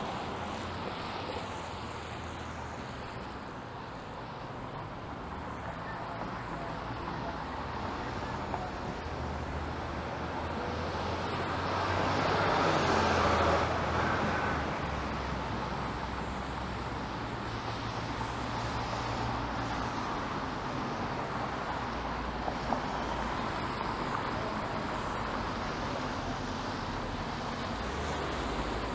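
City street traffic: cars passing with tyre noise, which the wet road after rain colours. One vehicle swells up, passes loudest about halfway through, then fades.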